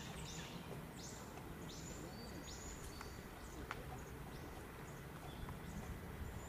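Small birds chirping: repeated short, high calls, about one or two a second, over a steady low background noise with a few faint clicks.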